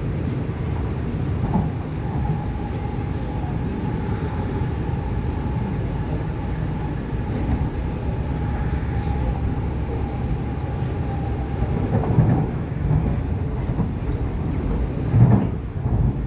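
MTR East Rail Line R-Train electric multiple unit running, heard from inside the car: a steady low rumble of wheels on track. A thin steady whine runs from about 2 s to 12 s in, and there is a single thump near the end.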